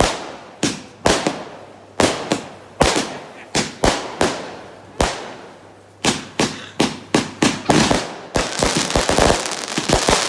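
Fireworks going off: a string of sharp bangs, each with a short fading tail, about one a second at first, then coming faster, and breaking into a dense crackle near the end.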